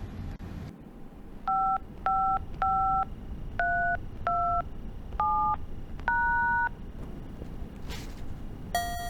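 Phone keypad dialing a number: seven touch-tone (DTMF) beeps, each two tones at once, at an uneven pace. Near the end a buzzy phone tone begins.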